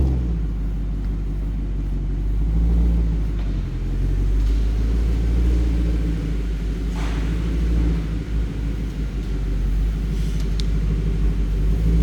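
BMW E92 M3's 4.0-litre V8 idling, a steady low rumble.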